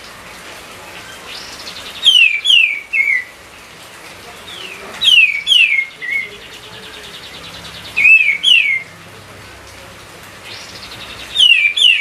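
Kapas tembak, a bulbul, singing: four short phrases of two or three quick falling whistled notes, one about every three seconds, with a fainter buzzy trill between them.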